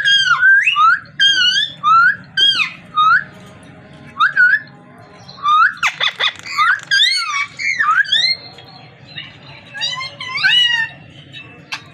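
Parrot whistling and chirping: a quick run of short whistled calls that sweep up and down in pitch, with a harsher squawk-like burst about six seconds in.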